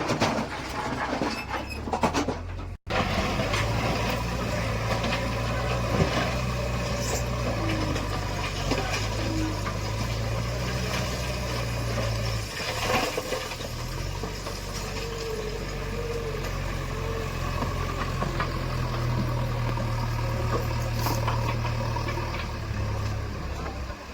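Heavy diesel engine of earth-moving machinery running steadily at low revs, with a few short knocks and clanks. The sound cuts out for an instant about three seconds in.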